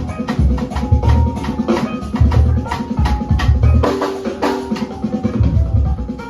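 Live rock band music: a drum kit hitting fast and hard over heavy repeated bass notes, with some sustained guitar-like tones.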